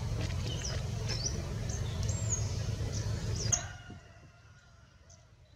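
Short, high chirps and whistles of small birds over a steady low rumble. About three and a half seconds in, a sharp click and the sound drops to a faint background with a few scattered chirps.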